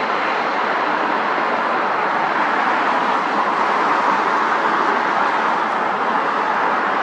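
Jet airliner engines making a steady rushing noise, a little louder about four seconds in.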